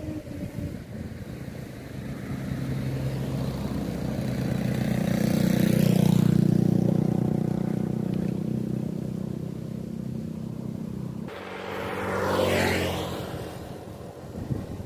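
Motorcycle engine running as it is warmed up after sitting unridden for three months. The engine sound swells to a peak about six seconds in and fades, changes abruptly near eleven seconds, then swells briefly again.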